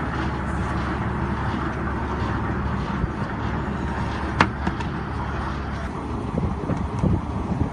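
Truck-mounted rotary table water well drilling rig running steadily, with a sharp knock about four and a half seconds in and a few lighter clicks near the end.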